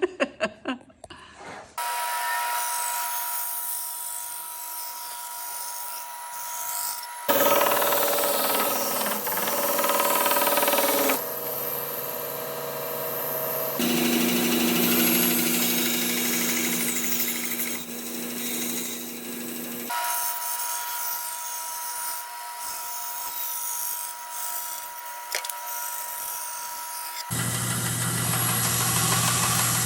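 A few sharp knocks, then electric power tools running on wood in short clips cut together: a steady motor sound that changes abruptly every few seconds as one clip gives way to the next.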